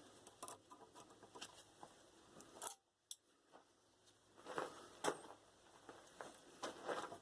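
Faint metallic clicking and scraping as the piece held in a vise is twisted with a hand tool, with a few sharper clicks about four and a half and five seconds in.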